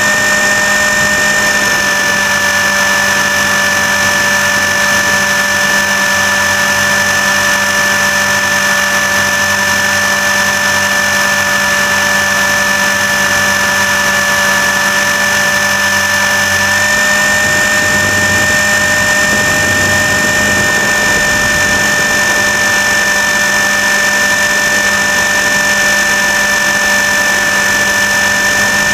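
RC helicopter's motor and rotor drivetrain running at steady speed, heard up close from a camera mounted on the airframe: a loud, constant high whine over a lower hum. Its pitch drops slightly about a second and a half in and rises again about seventeen seconds in, with more low rumble after that.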